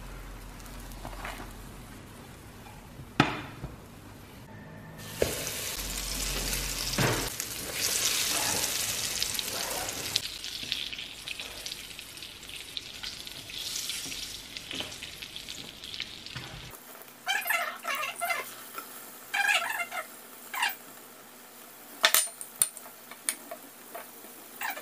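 Batter-coated parasol mushrooms frying in oil in a pan: a steady sizzle that swells about five seconds in, with a wooden spatula knocking against the pan. Later come short sharp crackles and clicks.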